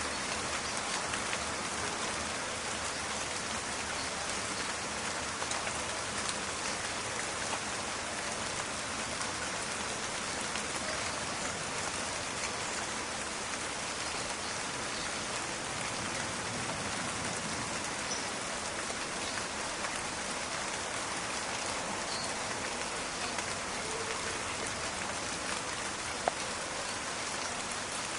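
Steady rain falling and pattering in a forest, a dense even hiss with scattered crackling drops. A single sharp click about 26 seconds in.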